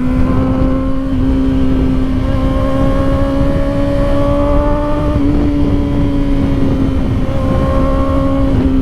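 Kawasaki Ninja ZX-4RR's 399 cc inline-four engine running at steady high revs under way, its pitch rising slightly about halfway through and easing a little near the end, over a constant low rush of wind.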